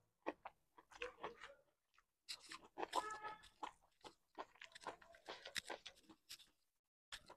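Close-miked chewing of pork and rice eaten by hand: irregular wet mouth clicks, smacks and soft crunches, quiet throughout.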